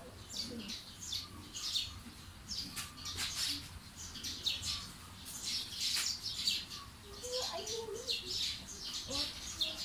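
Small birds chirping: a steady stream of short, high chirps, several a second.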